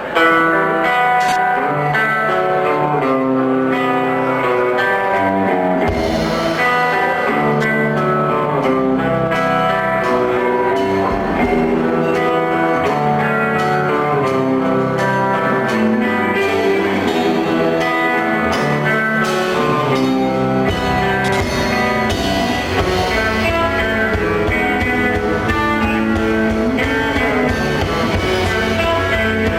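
Live rock band playing the instrumental opening of a song, led by guitars; deeper notes join about six seconds in.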